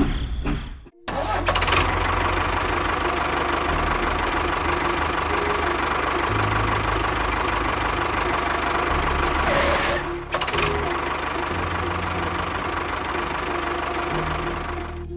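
A small motor running steadily, with a low hum under a noisy drone. The sound drops out abruptly about a second in and again about ten seconds in, then resumes.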